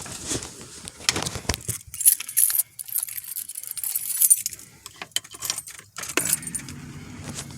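A ring of keys jangling, with scattered clicks and knocks as they are handled, just before the key is cycled for a cold start. A low steady hum comes in about six seconds in.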